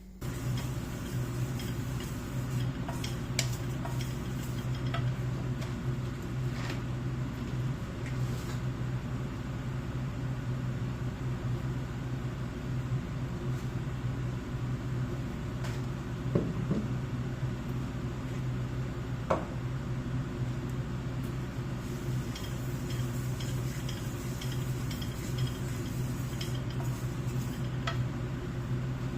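Kitchen work sounds: scattered light clinks and knocks of dishes and utensils over a steady low hum.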